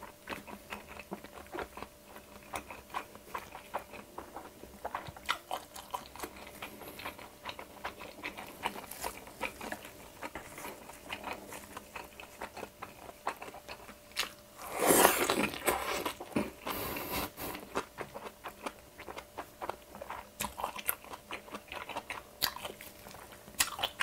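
Close-miked chewing of a mouthful of perilla-leaf jeon (Korean pancake), mouth closed: a steady run of small wet smacking clicks, with one louder, noisier burst about fifteen seconds in.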